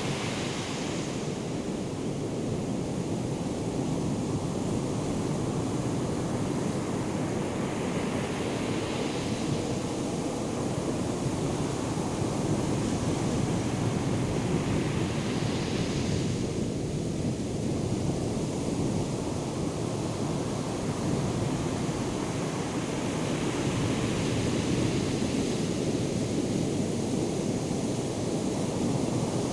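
Ocean surf from a hurricane swell: a steady roar of breaking waves, with a fresh hissing wash of a breaker surging in every several seconds.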